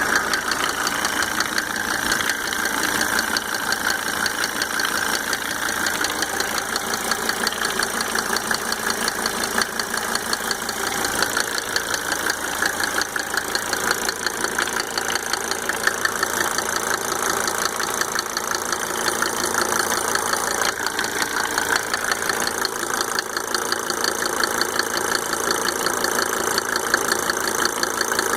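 Mercedes W124 2.5-litre five-cylinder diesel engine running steadily at idle with its rapid, even clatter. It carries a tick that the owner cannot trace, even after fitting five newly rebuilt injectors with Monarch nozzles.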